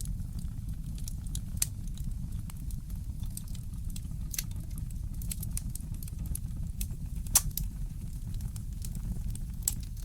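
Fireplace crackling: irregular sharp pops and clicks from the burning wood, the loudest about seven seconds in, over a low steady rumble.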